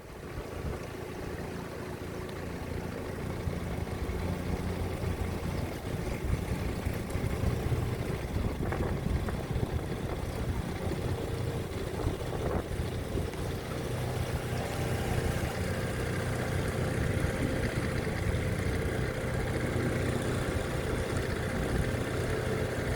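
Dinghy outboard motor running steadily, a low hum that grows louder over the first few seconds and then holds.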